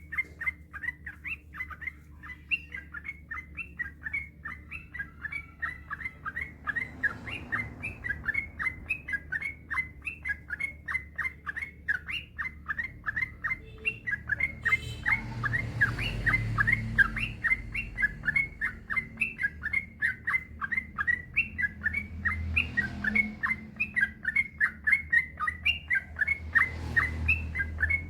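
Yellow-vented bulbul (trucukan) singing a long, unbroken run of short, quick chattering notes, about three a second, with a low background rumble that swells now and then.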